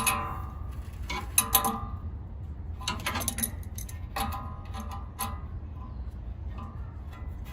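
Metal hand tools clicking and clinking against metal in several short bursts, each with a brief ringing tone, as fasteners on a condenser fan motor mount are worked on.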